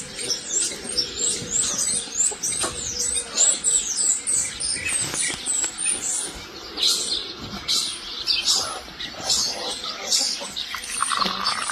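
Small birds chirping busily: quick, high, down-sliding chirps, close together and overlapping.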